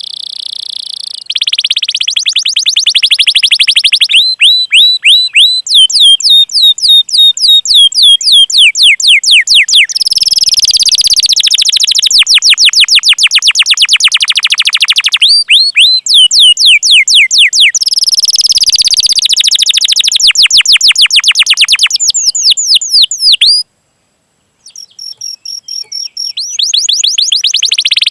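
Domestic canary singing a long song of fast rolls and repeated rising 'cuit cuit' chirps, pure and high-pitched. The song breaks off briefly about 24 seconds in, then resumes.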